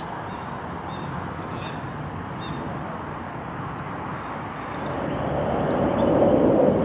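Steady outdoor background noise, then an approaching aircraft's engine growing steadily louder from about five seconds in, with a steady tone.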